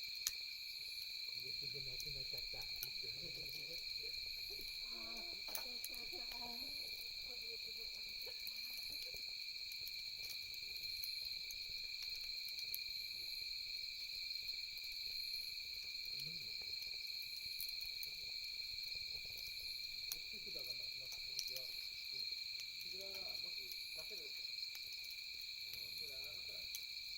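Night insects chirring steadily at two high pitches, with now and then a sharp crackle from the campfire and faint low calls in the background.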